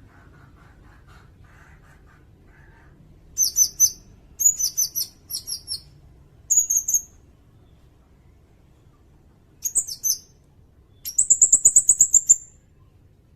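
Sirindet bird calling: several bursts of short, high, sharp chirps, then a rapid trill of quickly repeated notes lasting about a second and a half near the end.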